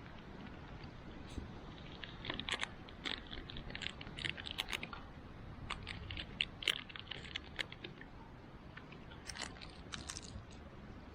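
Wood campfire crackling, with irregular sharp snaps and pops that come thickest a couple of seconds in and again near the end.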